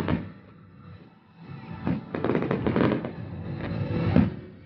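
Fireworks shells bursting in the sky. A crackling burst fades at the start, then about a second and a half in a dense run of bangs and crackles builds to its loudest bang near the end.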